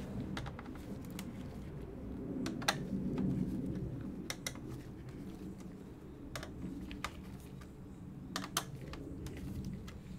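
Laptop's plastic parts being handled and unclipped during disassembly: scattered sharp plastic clicks and taps over a low scraping and rubbing of parts being worked loose.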